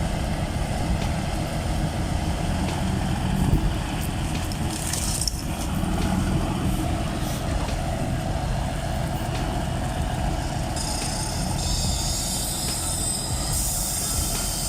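Heavy vehicle running with a steady low rumble, with a short hiss about five seconds in and a longer hiss near the end.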